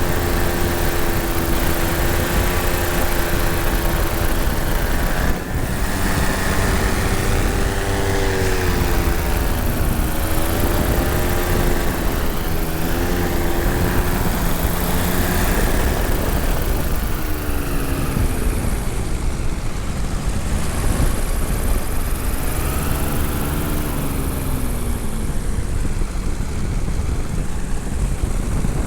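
Tandem paramotor's engine and propeller running in flight, its pitch wavering up and down, over a dense low rumble.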